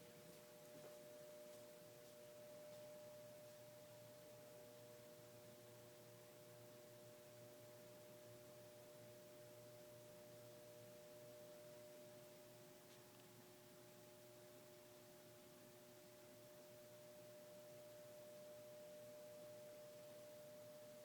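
Near silence with a faint, steady hum made of a few held tones.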